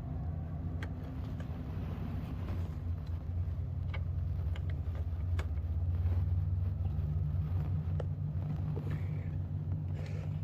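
A steady low rumble runs throughout, with light, scattered metallic clicks and clinks from parts of the motorcycle footpeg assembly being handled and fitted.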